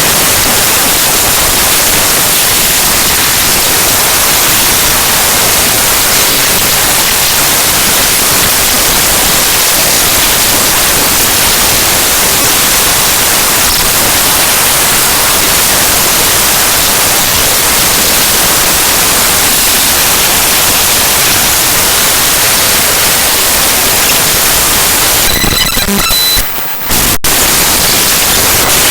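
Loud, harsh digital static: the bytes of the Windows kernel file ntoskrnl.exe played back as raw audio data, an even hiss across the whole range. Near the end it briefly changes, with a short high tone, a sudden dip in loudness and a sharp click, before the static resumes.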